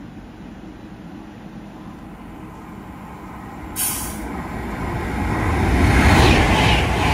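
Train approaching on the main line, its rumble and rush swelling steadily from about four and a half seconds in until it is loud near the end. A short sharp hiss cuts in about four seconds in.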